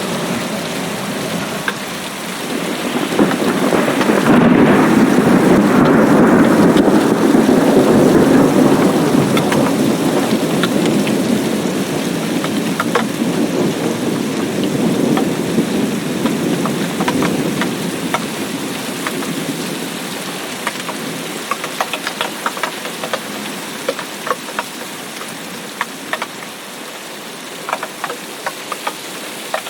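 Steady rain with a long rumble of thunder that swells about three seconds in and slowly dies away over the following fifteen seconds or so. Individual drops click sharply throughout and stand out more clearly near the end.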